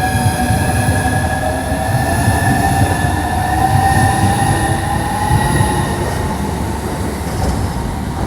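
Southeastern Class 395 high-speed electric train on the move: a heavy rumble of wheels on rail with a whine of several tones that rises slowly in pitch as it gathers speed.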